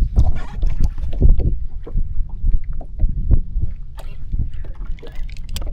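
Water sloshing and splashing around a small craft, with irregular low knocks and wind buffeting the microphone.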